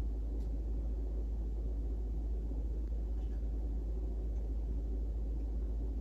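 Steady low rumble of background room noise, with no distinct event.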